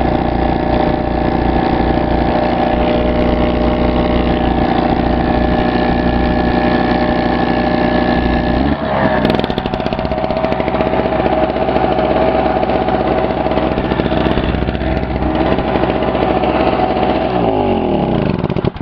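Pulsar PG1202S generator's 72cc two-stroke engine running hard under the load of an electric air compressor, with the compressor running on it; the engine is struggling near its limit. About nine seconds in the sound changes abruptly, and near the end the pitch falls as the machine winds down.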